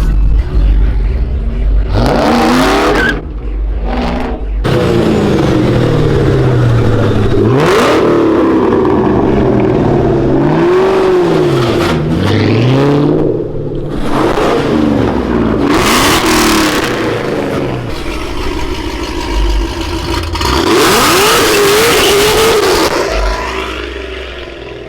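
A car engine revving hard over and over, its pitch repeatedly swinging up and down, with several loud bursts of noise over it.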